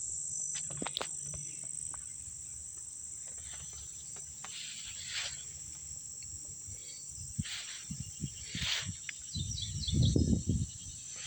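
Steady, high-pitched insect chorus, crickets trilling without a break. Scattered rustles come through the middle, and a few louder low thumps near the end.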